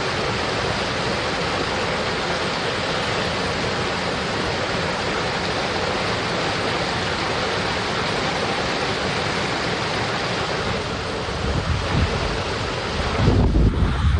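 Steady rushing of a forest stream. Low rumbling wind gusts buffet the microphone from a little before the end.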